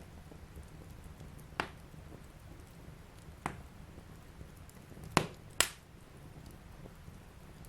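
Wood fire burning in a fireplace, a steady low rumble broken by sharp crackling pops: four in all, the loudest two about half a second apart near the end.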